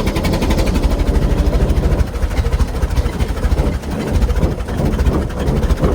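Large old engine of a 1914 fire truck converted into a chain-drive race car, running with a steady, even pulsing beat, its chain drive and straight-cut gears working.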